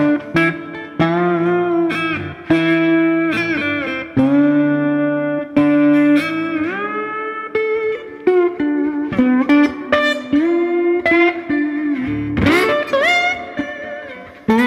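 Electric slide guitar in open D tuning playing a bluesy phrase in octaves, with two strings plucked together by thumb and ring finger while the strings between are muted. The notes slide up into pitch and ring on, about a dozen of them.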